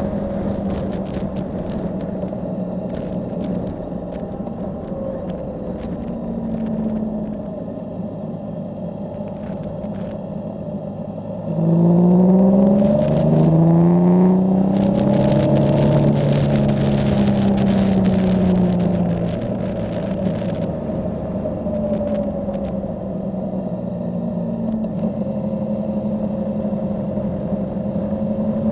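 Yamaha Tracer motorcycle engine heard from the bike, cruising steadily with wind noise. A little over a third of the way in it gets louder under acceleration, the pitch climbing and dropping back a few times as it is shifted up, then it holds at speed and eases off about two-thirds through.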